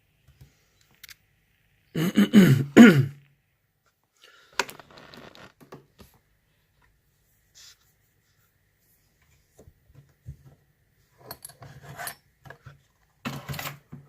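Small metallic clicks and scrapes of a lock pick and tension tool working the pins of an ASSA 6-pin euro cylinder. About two seconds in there is a loud, short cough or throat clearing.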